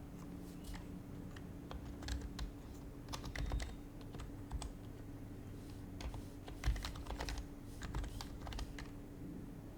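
Typing on an HHKB Professional HYBRID Type-S keyboard, its silenced Topre switches giving soft, irregular keystrokes in quick runs, with a brief lull around the middle and the typing stopping shortly before the end.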